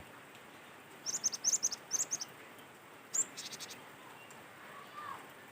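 Cinereous tit (gelatik batu) calling: a quick run of high, sharp chirps about a second in, then a short high note with a fast rattle about three seconds in, over faint steady background noise.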